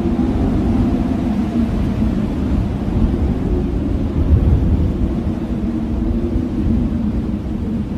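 Blizzard wind blowing steadily: a deep rumble with a faint, wavering howl above it.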